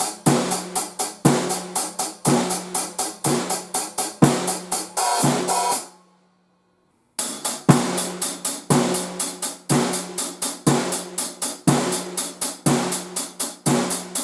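Drum kit groove on 14-inch hi-hats with kick and snare: quick, steady hi-hat strokes over a regular kick and snare beat. The playing stops about six seconds in, and after a second of silence the same groove starts again.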